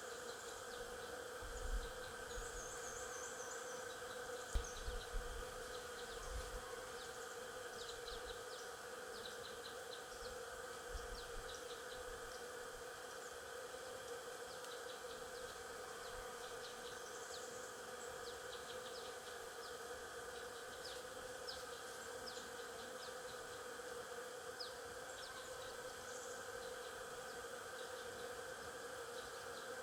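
A swarm of stingless bees buzzing in a steady hum, with scattered short, high bird chirps and trills over it. A few low bumps come about two and five seconds in.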